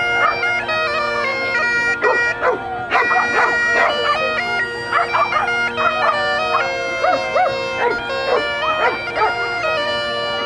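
Bagpipe music: steady drones under a stepped melody, with a dog barking and yipping over it several times.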